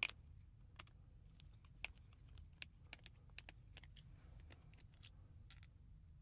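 Faint, irregular small clicks of a screwdriver turning the flex-clamp screws of a mains plug and the plastic plug parts being handled, with a sharper click right at the start.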